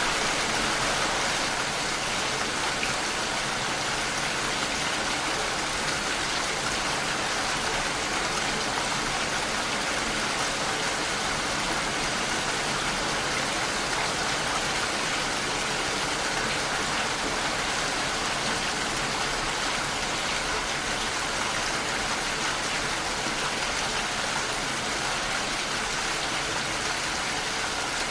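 Steady rain falling against a window pane, an even hiss with no breaks or single loud drops.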